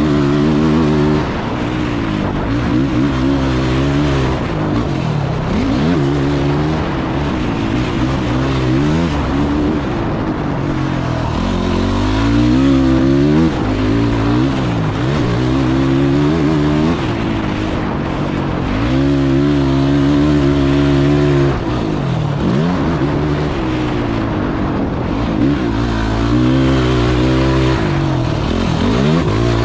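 Off-road engine of a quad or dirt bike being ridden hard on a motocross track. The revs climb again and again, hold, and drop off sharply as the rider shifts or lets off.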